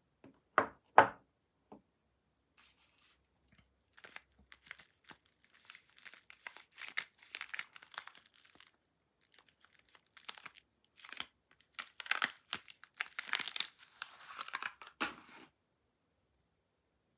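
Soap packaging being torn open and crinkled by hand: two sharp clicks near the start, then irregular tearing and crinkling that stops shortly before the end.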